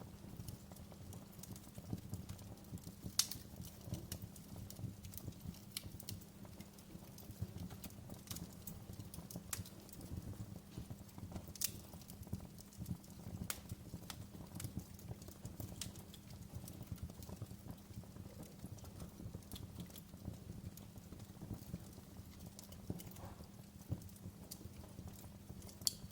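Wood fire burning in a fireplace: irregular crackling and snapping over a steady low rumble, with a few louder pops scattered through, the loudest about three seconds in and near the end.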